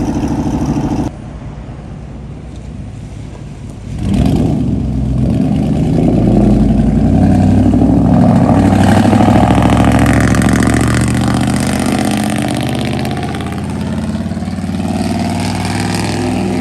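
Pickup truck engine and exhaust running loudly. About a second in the sound drops to a quieter engine, then about four seconds in an engine revs up loudly and keeps running.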